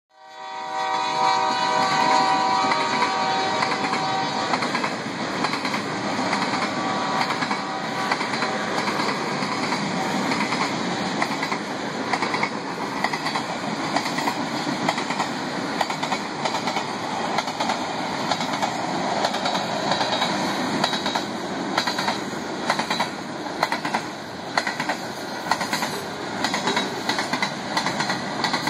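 A Union Pacific loaded frac sand train: a locomotive horn chord sounds for the first few seconds and fades. Then covered hopper cars roll past with a steady rumble of steel wheels and rhythmic clacks over the rail joints.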